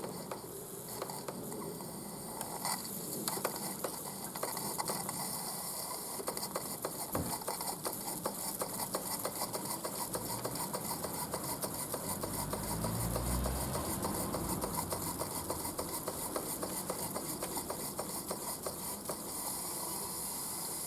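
Mamod SP8 James Watt model steam beam engine running poorly, its mechanism making a rapid, uneven ticking over a steady hiss. It runs badly despite plenty of steam pressure.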